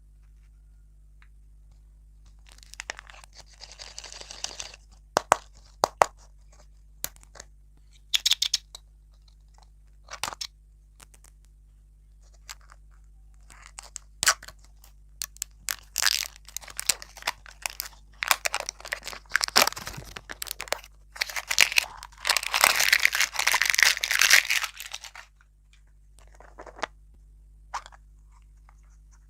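Close-miked crinkling, tearing and crunching of packaged sweets being opened and eaten, in scattered sharp crackles with a long, dense, loud stretch past the middle.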